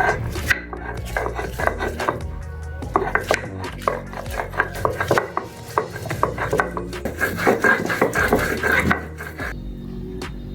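Metal utensil clattering and scraping in a kadhai, many quick irregular knocks that stop about nine and a half seconds in, over background music.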